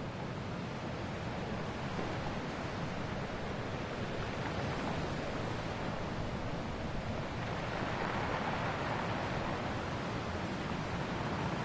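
Ocean waves washing onto a shore: a steady rush of surf that swells as a wave comes in about eight seconds in.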